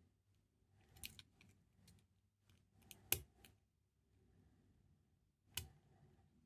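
Faint metallic clicks and light scraping of a hook pick and tension wrench working the pins inside a five-pin lock cylinder, with a few sharper clicks, the loudest about three seconds in.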